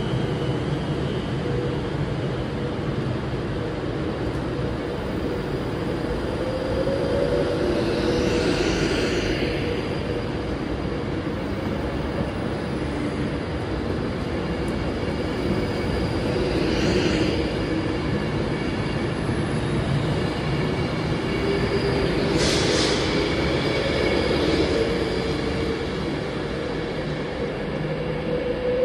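Avanti West Coast passenger train running slowly out along the platform: a steady rumble of wheels and coaches with a wavering whine, and a few brief high hisses or squeals from the wheels.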